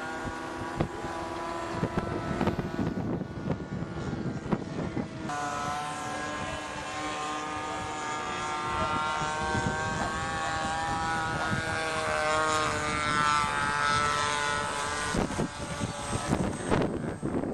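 Hangar 9 J-3 Cub RC model floatplane's motor and propeller droning in flight. The pitch jumps up about five seconds in, then slides up and down as the plane throttles and passes, with wind gusting on the microphone.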